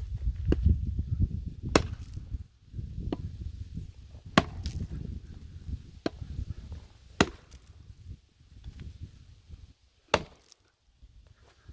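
Axe and hammer blows splitting a large firewood log, about seven sharp strikes at uneven intervals. The strikes grow further apart in the second half, the last one coming after a pause of about three seconds.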